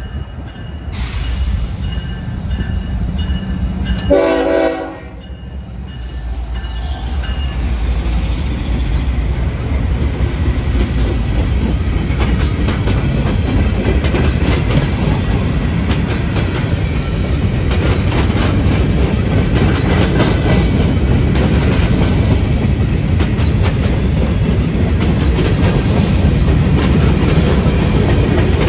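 A train horn sounds one short blast about four seconds in. Then a train passes close by: a rumble with the rapid clickety-clack of wheels over the rail joints, growing louder over the next few seconds and then holding steady.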